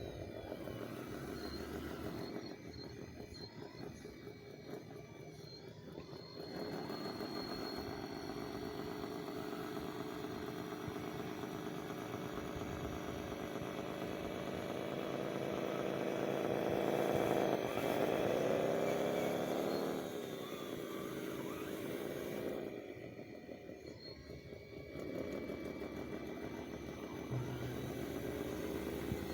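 Small electric motor of a radio-controlled construction model whining. Its pitch and loudness rise and fall as it works, loudest about two-thirds of the way through, with a sharp dip and climb in pitch there, and quieter spells near the start and the end.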